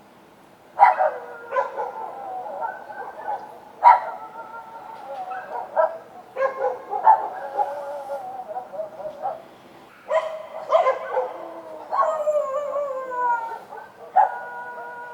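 Street dogs barking, a run of sharp barks starting about a second in, with longer drawn-out howling cries that fall in pitch near the end.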